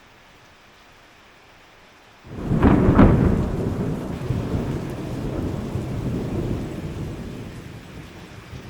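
Rain falling steadily, faint, then about two seconds in a loud thunderclap breaks out and rumbles low, fading away over several seconds.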